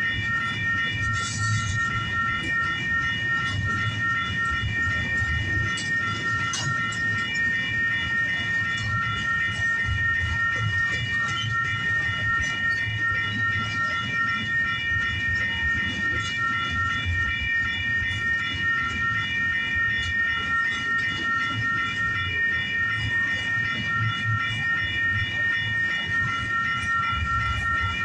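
Union Pacific intermodal freight train rolling past with a steady low rumble of wheels on rail. Over it, a grade-crossing bell rings in a continuous, even pulse.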